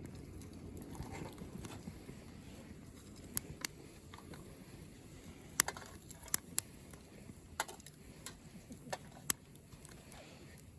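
Small twig fire crackling, with a scattered handful of sharp pops at uneven intervals over a faint low hiss.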